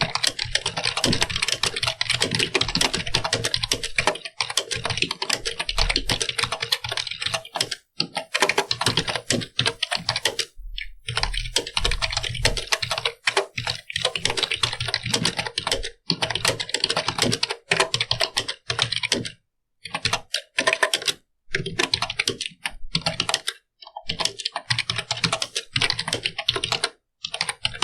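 Computer keyboard being typed on quickly: a dense run of key clicks, broken by brief pauses every few seconds.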